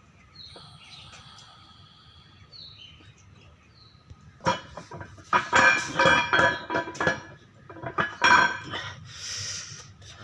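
Metal tools and engine parts clinking and clanking against each other, a run of sharp ringing metallic hits from about halfway through, ending with a short hiss.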